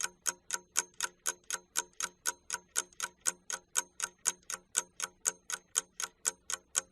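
Fast clock-ticking sound effect, about four even ticks a second, counting off the time given for a task.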